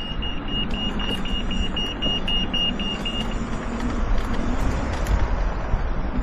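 Electric scooter pulling away and riding: a steady motor hum under wind and road noise, with a rapid high beeping, about four beeps a second, that stops a little over three seconds in.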